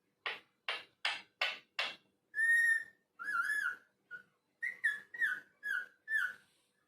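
Ringneck parrot calling: a quick run of five short, harsh squawks, then a string of whistled notes, one longer note followed by several short ones.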